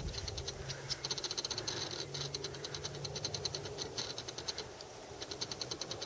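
Rapid, even pulsed chirping of insects, about ten chirps a second, pausing briefly near the end. Under it runs the low, steady drone of a distant Air Tractor crop-duster's engine, which fades out about halfway through.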